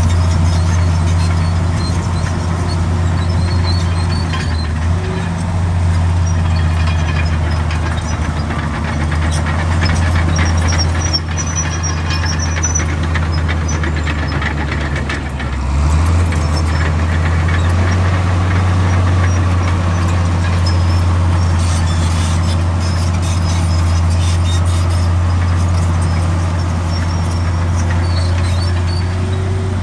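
Heavy diesel engine of a Komatsu D65 crawler bulldozer running steadily under load, its note dipping briefly about halfway through and then picking up again, with faint high squeaks over it.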